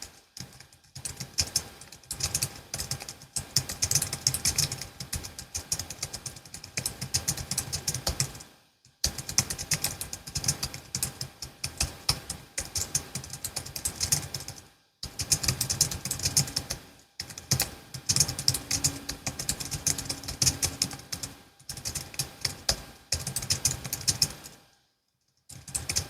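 Fast, continuous typing on a Logitech MX Keys S low-profile scissor-switch keyboard, many key clicks a second with a few short pauses between bursts.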